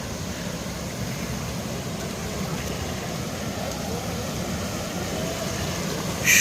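Mountain stream water rushing over rocks, a steady low rushing noise. A short high-pitched sound comes right at the end.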